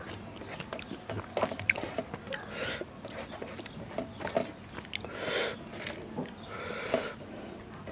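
Close-miked chewing of a mouthful of rice, dal and vegetable sabji, with irregular wet smacks and short clicks.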